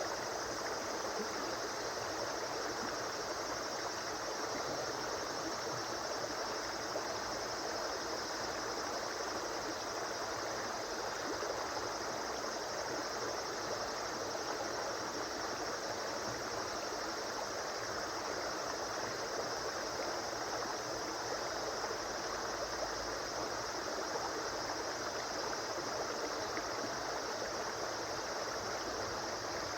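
A river flowing steadily: continuous rushing and burbling of moving water, even throughout.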